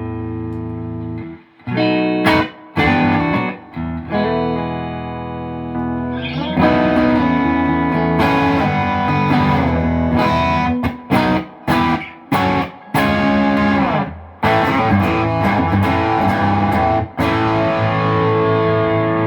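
Electric guitar tone sample: a Fender Stratocaster with an HSS loaded pickguard (humbucker at the bridge, two single coils) playing ringing chords, then denser strummed chords broken by short stops from about halfway through, ending abruptly.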